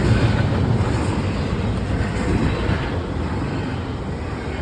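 Train cars rolling past at a crossing: a steady low rolling noise that eases slightly toward the end.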